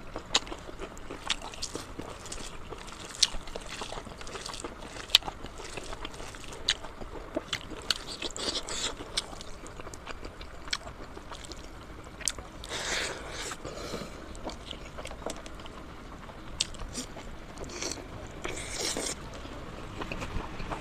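Close-up eating sounds: biting and chewing pork leg and pork nose, with scattered sharp clicks and a few short crunchy bursts.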